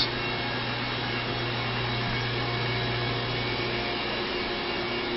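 2002 Chevrolet TrailBlazer's 4.2 liter inline-six engine idling steadily.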